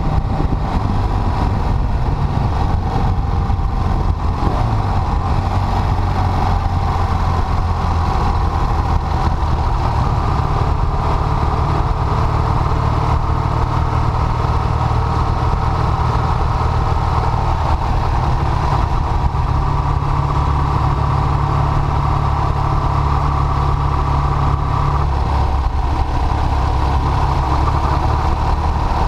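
Triumph Bonneville parallel-twin engine running at steady road speed, heard from the rider's seat. Its note shifts in pitch a few times, over a steady rush of noise.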